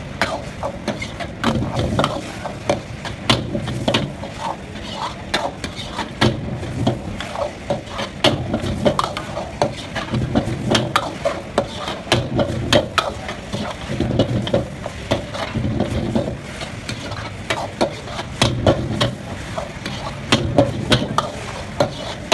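Noodles stir-frying in a wok: a metal spatula clanks and scrapes repeatedly against the pan over steady sizzling.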